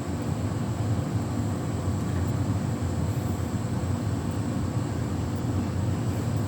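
Beko WTK104121W washing machine drum spinning steadily on its final spin, a constant low hum and rumble with a thin high whine above it.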